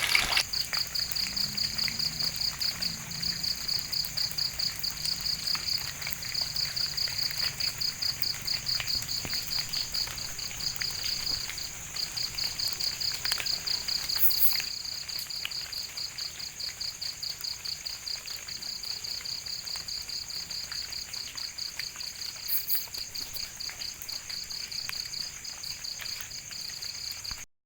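Crickets chirping: a rapid, even high-pitched trill of many pulses a second, over a steady higher insect whine. The sound cuts off abruptly just before the end.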